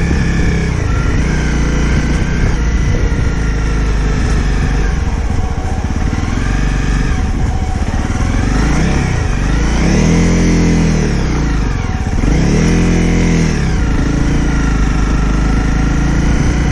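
Honda CRF250 Rally's single-cylinder engine running as the bike rides along, revs easing up and down, with two clear rises and falls in revs about ten and thirteen seconds in.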